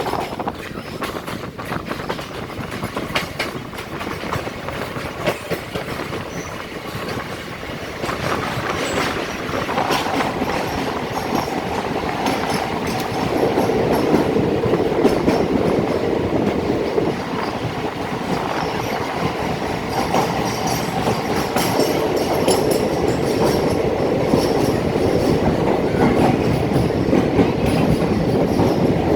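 Passenger train running on the rails, the wheels clattering over rail joints with some wheel squeal. It grows louder about eight seconds in and again around fourteen seconds.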